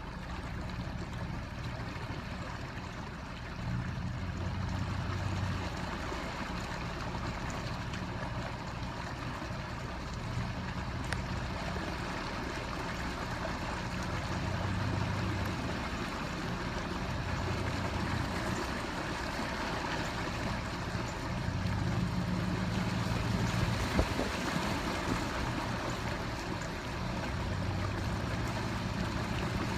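Gusty wind buffeting the microphone in irregular low rumbles over a steady rush of storm-surge floodwater.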